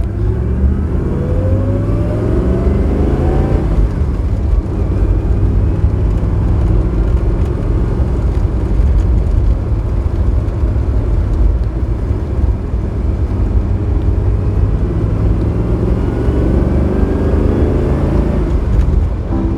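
1969 Maserati Ghibli 4.7's quad-cam V8 engine under way, rising in pitch as the car accelerates over the first few seconds. It then runs steadily and rises again near the end.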